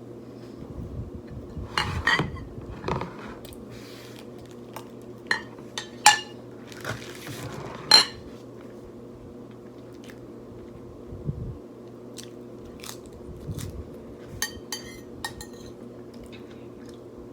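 Chewing and biting of food, with scattered sharp clinks of cutlery against dishes; the loudest clinks come about two, six and eight seconds in, and a quick run of ringing clinks comes near the end.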